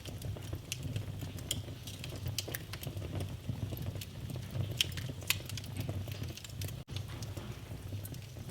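Wood fire crackling in a fireplace: irregular sharp pops and snaps over a low, steady rumble of the flames, with a momentary gap in the sound a little before the end.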